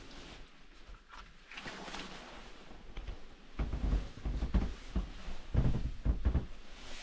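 Irregular soft thumps and knocks of objects being handled, grouped in the second half.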